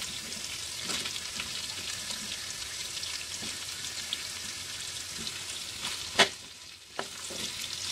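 Chicken ribs sizzling in hot oil in a wide metal pan as diced potatoes are added. About six seconds in there is a sharp clack of a metal ladle against the pan as the pieces are stirred, with a smaller one a second later.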